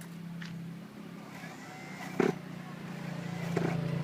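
Trackstar .21 nitro RC car engine running with a steady drone that grows louder near the end, with one sharp knock about two seconds in.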